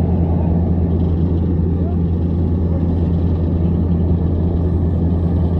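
A loud, steady low mechanical hum that holds at one pitch throughout, with a faint murmur of distant voices.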